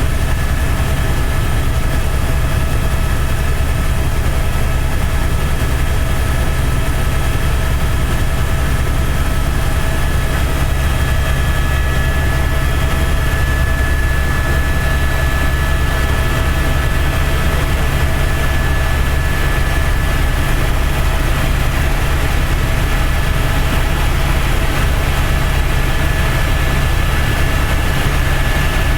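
Helicopter in steady flight: a heavy, unbroken low drone of engine and rotor, with a steady high whine over it.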